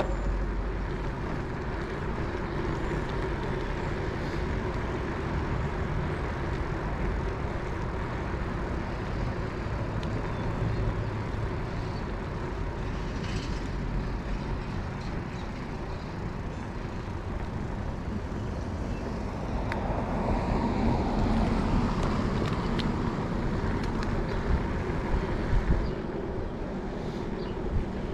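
Steady rumble of road and wind noise from riding a cruiser bicycle, swelling louder about twenty seconds in, with a few short sharp clicks a little later.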